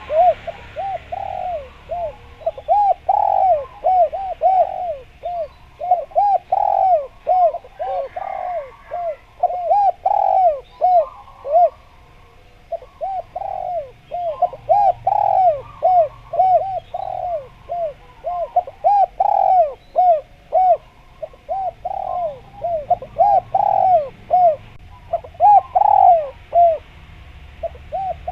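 Spotted doves (derkuku) cooing actively, in a fast, unbroken run of short arched coo notes.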